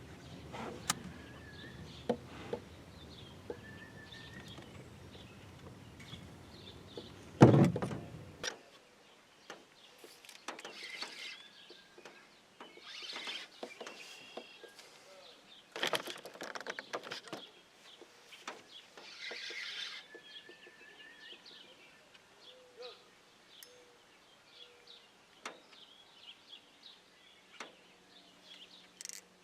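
Birds chirping, with one loud knock about seven seconds in, after which a low rumble stops. Several short noisy bursts follow.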